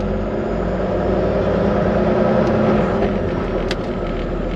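Heavy truck's diesel engine running steadily, heard from inside the Volvo VNL 860's cab as a low, even hum, with one short click a little before the end.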